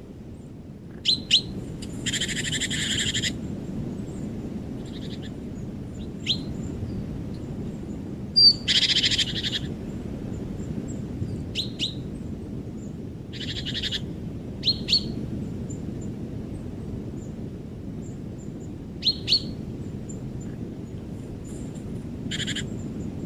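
Wild birds calling in a forest: short sharp paired chips repeated every few seconds, alternating with harsher rasping calls of about a second each, over a steady low background rush.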